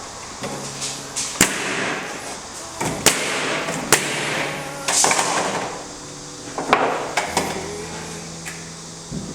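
Work noise: several sharp knocks and clicks a second or more apart, with short bursts of hiss between them.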